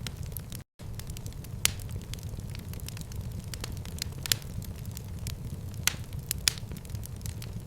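Wood fire in a fireplace crackling, with a steady low rumble and scattered sharp pops, the loudest four coming about two, four, six and six and a half seconds in. The sound drops out completely for an instant just under a second in.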